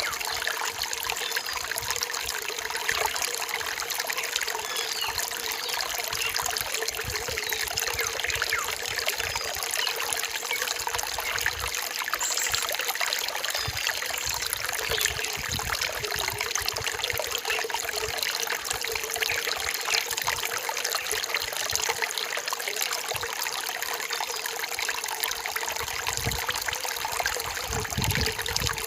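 Forest stream trickling and splashing steadily over rocks.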